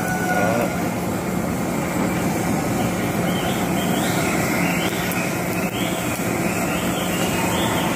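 Hand-held gas blowtorch burning with a steady hiss as its flame singes a plucked duck's skin, burning off the leftover down and rendering the fat so the skin turns firm and golden.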